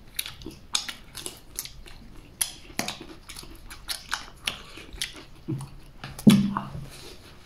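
Close-up chewing and biting of a rolled flatbread with fried sauce and scallion: a run of short mouth clicks and smacks, several a second. About six seconds in there is a short hummed voice sound, the loudest moment.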